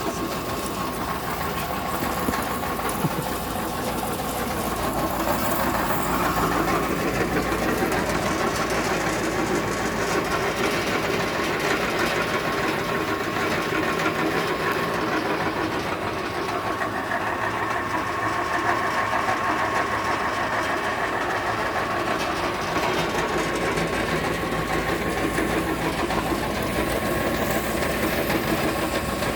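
Screw press for Pini Kay fuel briquettes running steadily: a continuous mechanical churning with a thin, steady high hum.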